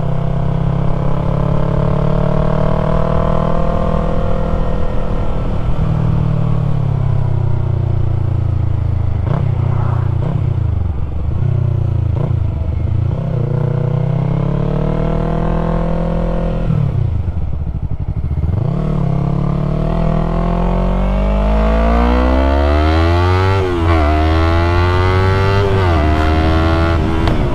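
2020 Yamaha MT-03's parallel-twin engine through a full-system aftermarket exhaust, under way with the revs repeatedly climbing and falling. The revs drop right down twice, around ten to thirteen seconds in and again around seventeen seconds in, then climb hard again.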